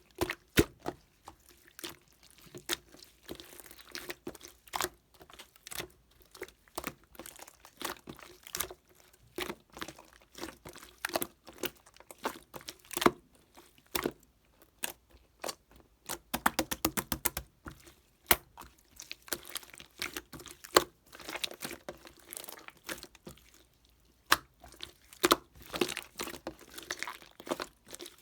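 Irregular sharp clicks and light taps with some crinkling, in quick clusters with short pauses between them.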